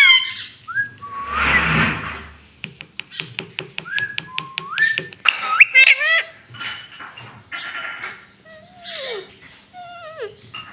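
Rose-ringed (ring-necked) parakeet whistling: a string of short whistles that glide up in pitch, a couple falling near the end, with sharp clicks and harsh noisy chatter between them.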